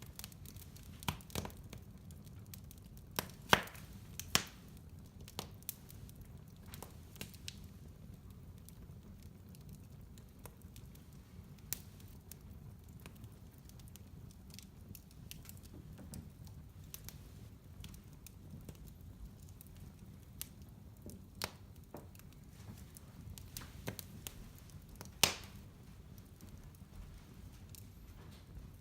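Wood fire in a fireplace crackling: scattered sharp pops and snaps over a low, steady rumble of the burning fire. A few louder pops stand out, two close together about three and a half seconds in and one near the end.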